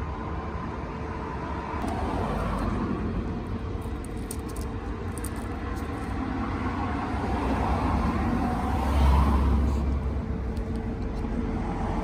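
A car running, a steady low engine and road rumble that swells louder about nine seconds in.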